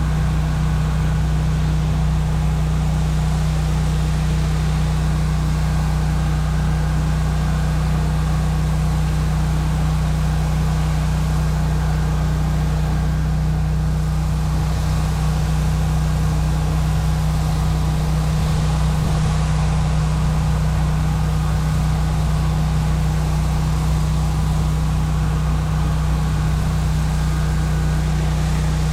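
Pressure washer's engine running steadily at constant speed, with an even hiss over it.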